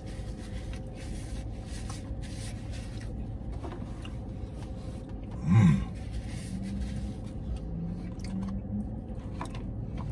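A man chewing a mouthful of Double Big Mac, with soft scrapes and rustles from handling the burger and wrapper. About halfway through there is one short vocal sound of enjoyment.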